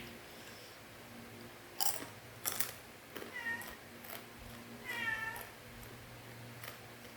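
A cat meowing twice, about three seconds in and again about five seconds in, the second call longer. Two sharp clicks come just before the meows.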